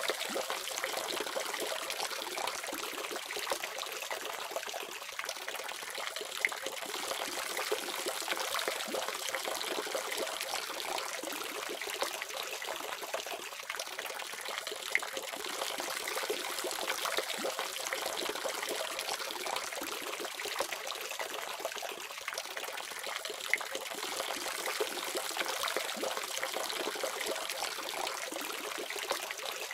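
Water running steadily from a faucet, an even splashing with a few brief louder splashes.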